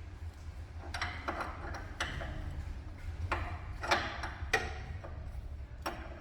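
Irregular metallic clinks and knocks of a hand wrench on the 13 mm bolts of a Dodge Dakota's front sway-bar bushing bracket as they are loosened, about six sharp strikes spread over a few seconds.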